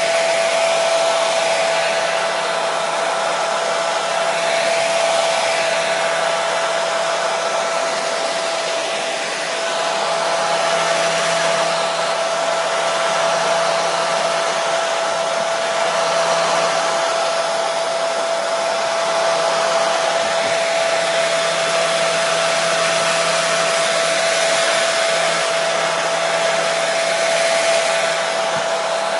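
Hair dryer running continuously: a steady rush of blown air with a constant motor whine on top.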